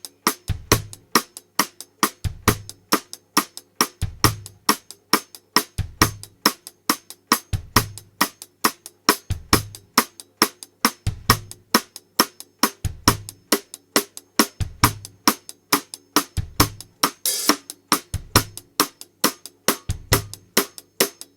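Recorded drum kit track playing a steady beat, about four hits a second from snare and hi-hat, with a bass drum kick roughly every two seconds. A crash cymbal rings out about three-quarters of the way through.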